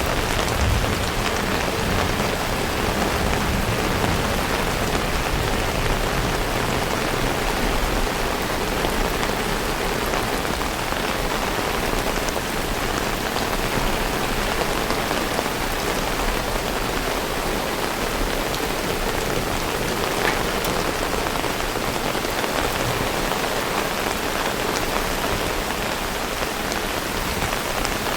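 Heavy rain falling steadily, an even hiss with scattered drops ticking on surfaces.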